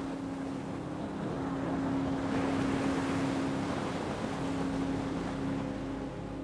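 Ocean wave surging in and washing back, its hiss swelling to a peak two to three seconds in and then easing off, over a steady low drone.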